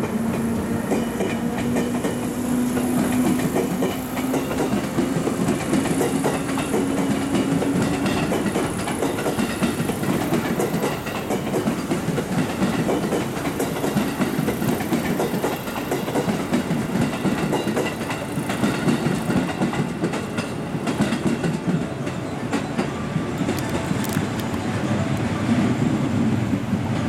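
Electric trains running on the station tracks, wheels clattering over rail joints, with a steady motor hum for about the first eight seconds.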